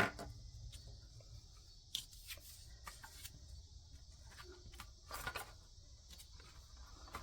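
Paper money and paper being handled: soft rustles with a sharp click at the start and another about two seconds in. Behind it runs a steady, high-pitched drone of cicadas.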